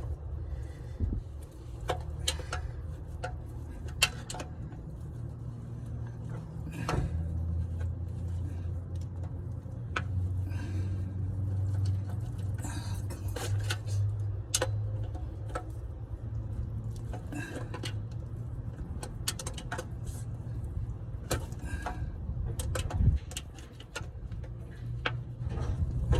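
Scattered metallic clicks, taps and knocks of hand tools and metal parts as an oil filter is worked at under a car, over a steady low hum.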